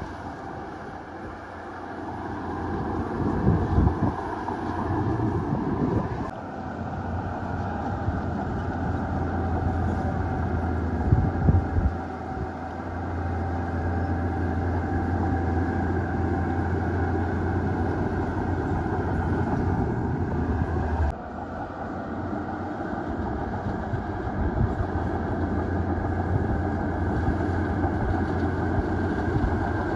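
Heavy diesel earthmoving machinery running steadily at work, with a couple of louder knocks. The engine sound changes abruptly twice, about a third of the way in and again about two-thirds of the way in.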